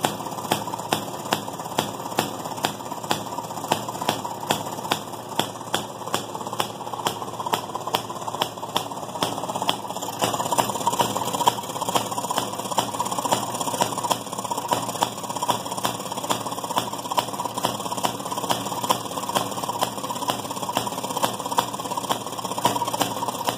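1929 Maytag gas-engine wringer washing machine running: the small gasoline engine and the machine's gearing make a steady mechanical clatter, with a sharp click repeating about two and a half times a second. It gets a little louder about ten seconds in.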